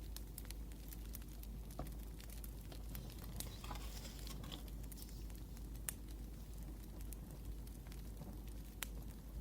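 Wood fire crackling, with sharp pops at irregular intervals over a low steady hiss, and a brief rustle about four seconds in.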